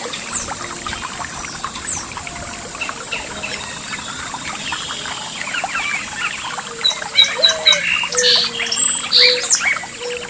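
Several birds singing and chirping over trickling water. The birdsong grows louder about two-thirds of the way in, with a run of four quick high notes, and a thin steady high tone runs underneath.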